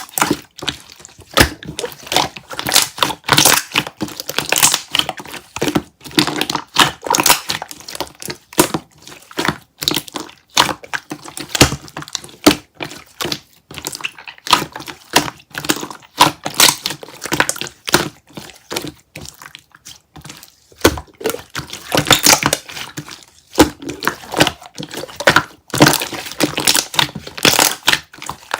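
Hands kneading, squeezing and pressing slime, making a rapid, irregular run of sticky clicks and crackling pops, with a few short pauses.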